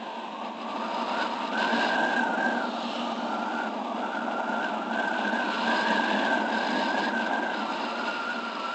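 Small motorbike engine running under way, its whine rising about a second and a half in, dipping briefly and climbing again as the throttle changes, over a steady rush of wind and road noise.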